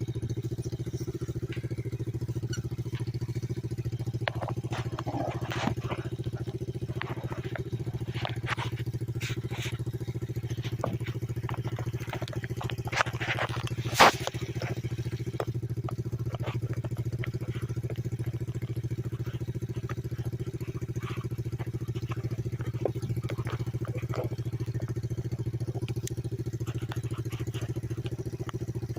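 Pit bike engine idling steadily, an engine its owner says does not sound the best. Scattered clicks and knocks sound over it, with one sharp knock about 14 seconds in.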